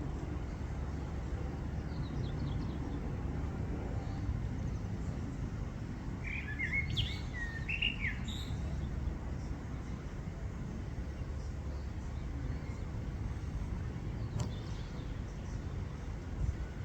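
A bird gives a short run of chirps about six seconds in, over a low, steady outdoor rumble.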